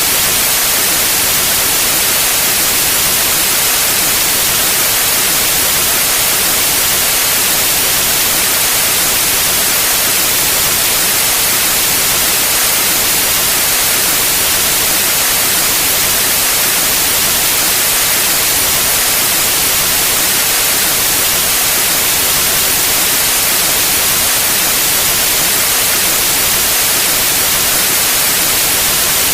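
Steady pure white noise: an even, unchanging hiss spread across the whole range of pitch, brightest in the highs.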